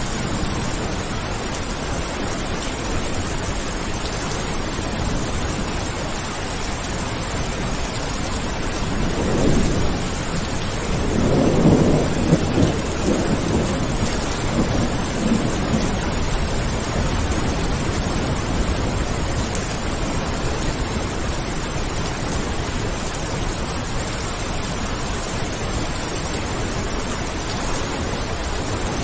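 Steady heavy rain with a roll of thunder rumbling up about nine seconds in, loudest around twelve seconds, and fading away by about sixteen seconds.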